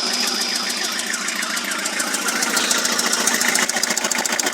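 Toyota 5L four-cylinder diesel engine running with a fast, even knock. The knock comes from a swirl chamber (prechamber) insert that has fallen out of the cylinder head and beaten out the head gasket.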